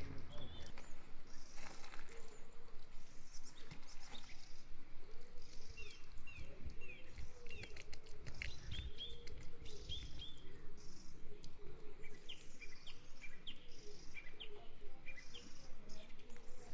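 Birds chirping, with short high chirps repeating throughout, over lower repeated calls and scattered clicks.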